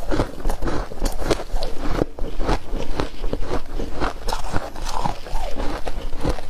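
Frost ice being bitten and chewed: a dense, continuous run of irregular crunches.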